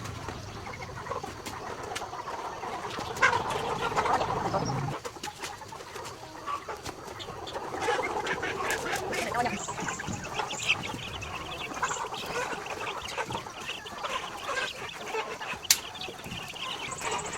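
Chickens clucking and squawking, with scattered knocks and clicks. A low rumble underneath stops about five seconds in.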